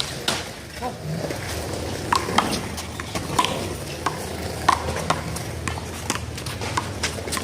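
One-wall handball rally: a small rubber handball smacked by hands and slapping off the wall and the pavement in a quick, uneven string of sharp hits.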